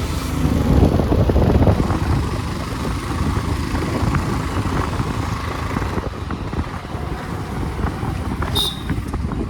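A motor vehicle running, with a heavy rumble and wind buffeting the microphone, loudest in the first two seconds and then steady. A brief high chirp comes near the end.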